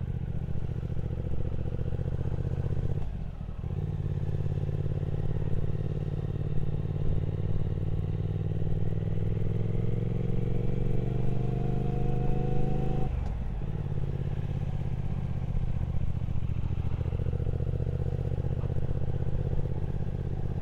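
Triumph Speed Twin 1200's parallel-twin engine running on the road. About three seconds in the note briefly dips, then the pitch rises steadily for about ten seconds as the bike accelerates, drops suddenly about thirteen seconds in at a gear change or throttle lift, and runs steadily after that.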